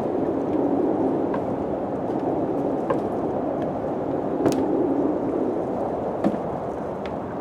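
Wind blowing steadily, swelling a little and easing, with scattered sharp ticks and knocks every second or so.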